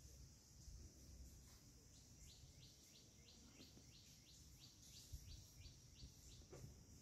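A bird calling faintly, a rapid run of short sweeping notes at about three a second, over a steady high hiss and low outdoor rumble.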